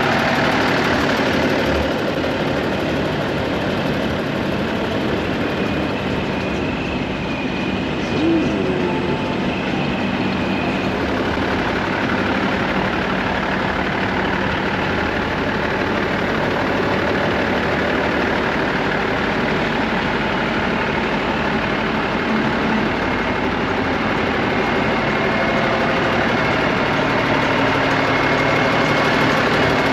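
Heavy diesel truck engine running steadily at idle.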